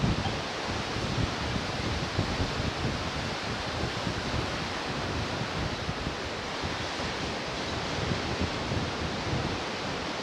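Ocean surf washing steadily onto the shore, with wind buffeting the microphone and flickering in the low end.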